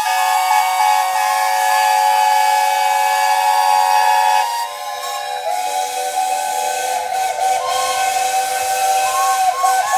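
Several traction engine steam whistles blowing at once, overlapping held notes forming a chord over a hiss of steam. About halfway through some of the whistles stop and the sound thins, and the remaining whistles carry on with wavering, warbling notes.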